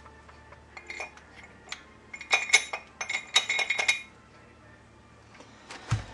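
Cold chisel clinking against the steel kingpin bushing and spindle as it is worked to drive the bushing down: scattered light metallic taps, then two quick clusters of ringing clinks in the middle, and a duller knock near the end.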